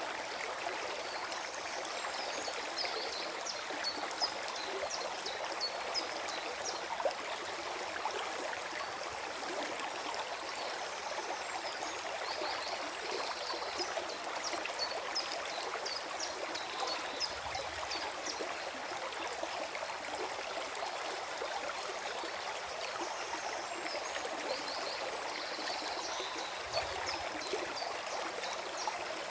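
Forest stream flowing and gurgling steadily.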